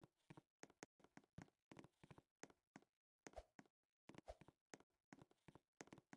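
Faint, irregular taps and clicks, a few a second, with short gaps of silence between them.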